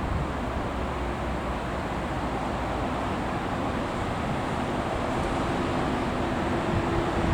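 Electric train running past, a steady rumble that grows slightly louder, with a faint hum joining near the end.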